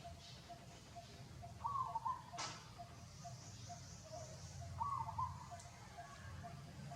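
A bird calling: a short call repeated about every three seconds, over a steady low hum, with one sharp click about two and a half seconds in.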